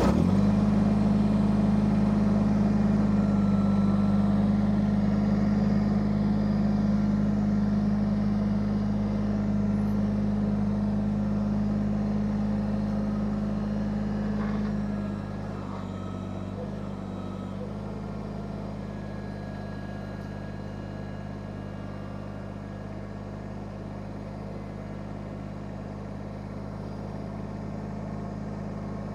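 Kubota subcompact tractor's diesel engine running at a steady speed, with a low, even hum. About halfway through it drops noticeably in volume after a brief wobble, then runs on steadily.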